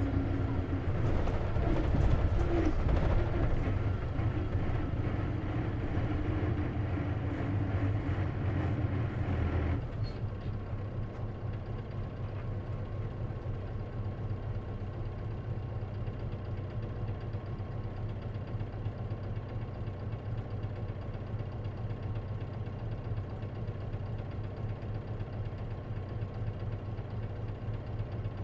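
Isuzu KC-LV380N city bus, heard from inside the cabin, running under way for about ten seconds. The sound then drops suddenly and the engine settles into a steady idle.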